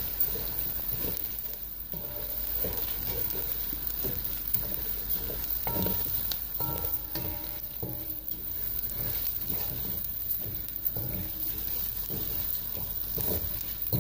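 Washed long-grain rice and sliced onions sizzling in hot oil in a metal pot, stirred with a wooden spoon that scrapes and knocks against the pot again and again.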